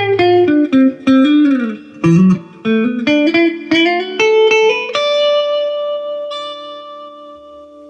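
Electric guitar played through a Fender Super Reverb tube combo amp. A single-note lead line with string bends runs for about five seconds, then ends on a held note that rings out and slowly fades.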